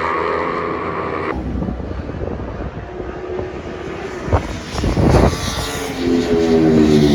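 Superbike racing motorcycles going past at speed, with an abrupt change in the sound about a second in. Near the end a bike's engine note falls in pitch as it passes.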